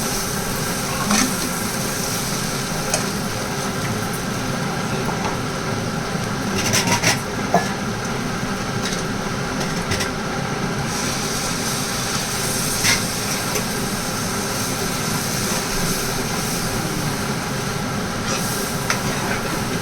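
Food frying in a pan over a steady hum, with a few clinks of a utensil against the pan and a short cluster of them about seven seconds in.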